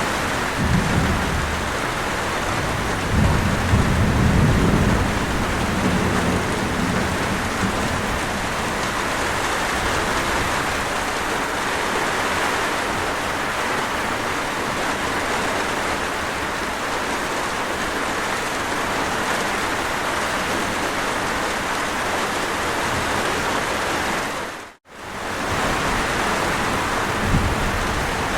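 Steady heavy rain, with low rolls of thunder rumbling in the first few seconds. The sound cuts out for a moment near the end.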